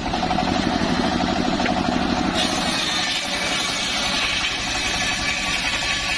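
Homemade circular sawmill running with a steady engine-like drone. The sound changes abruptly about two and a half seconds in, taking on a brighter, higher-pitched edge.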